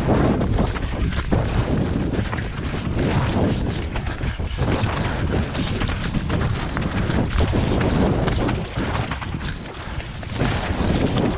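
Heavy wind buffeting on the microphone: a loud, continuous rumble broken by irregular thumps.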